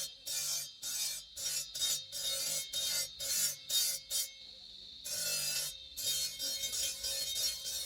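A hand file rasping on green marble in quick back-and-forth strokes, about three a second, pausing briefly about four seconds in before continuing.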